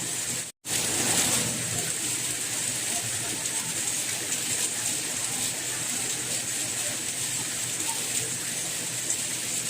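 Steady, even rain hiss. It cuts out completely for an instant about half a second in, then comes back.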